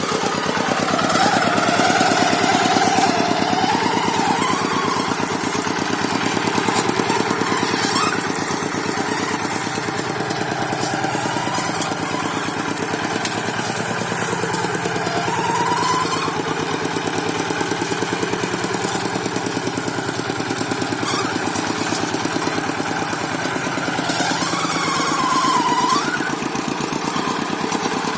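Paddy-field tractor engine running steadily under way, with a fast even pulsing. A wavering high tone rises and falls a few times above it.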